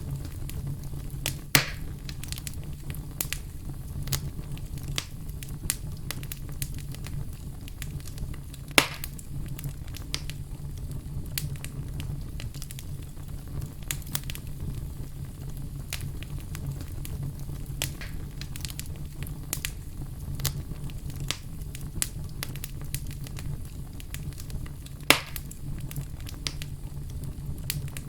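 Wood fire crackling: a steady low rumble of burning with frequent sharp snaps and pops, three of them louder, about 1.5 s, 9 s and 25 s in.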